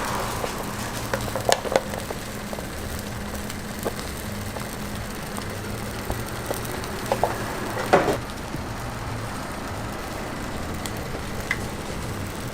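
Food sizzling steadily on a hot street-food griddle, with a few sharp clicks and knocks. The loudest knock comes about eight seconds in.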